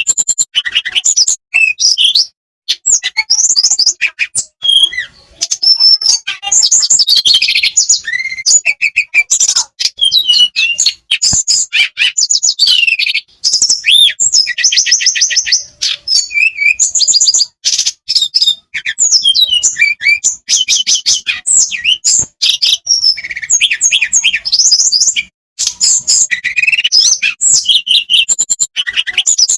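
Blue flycatcher (tledekan) in full song: a fast, varied run of high whistles, trills and warbled phrases, broken only by short pauses. It is a singing bird giving out its repertoire of learned mimicked phrases.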